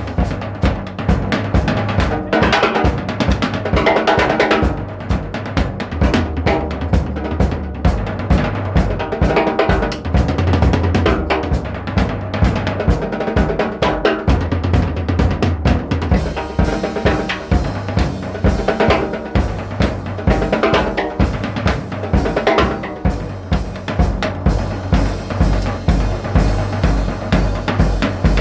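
Music with a drum kit playing a steady beat: bass drum, snare, hi-hat and cymbals, with pitched instruments or voice over it. The low kick drum comes forward in the last few seconds.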